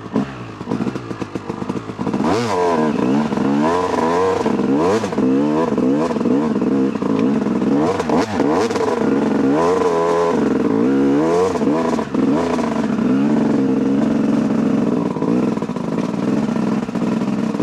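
Dirt bike engine revved hard, its pitch sweeping up and down again and again as the throttle is worked, then running steadier in the last few seconds.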